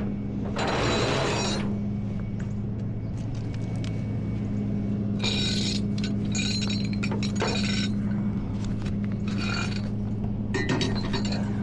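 Metal tow-bridle chains and hooks clinking and rattling in several short bursts as they are handled and hooked up, over the steady hum of an idling truck engine.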